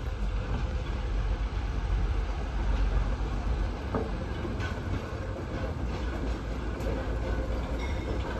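Open-air excursion railcar rolling along the track: a steady low rumble of steel wheels on rails, with a few faint clicks.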